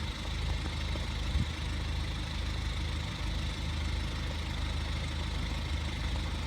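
A vehicle engine idling steadily, with a low, even pulsing hum.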